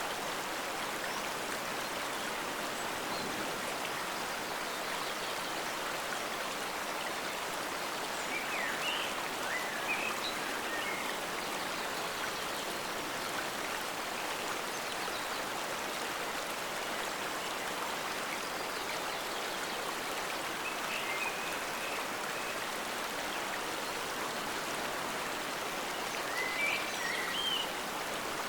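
Forest stream flowing with a steady, even rush of water. Short, high chirps break in about nine seconds in, again around twenty seconds, and near the end.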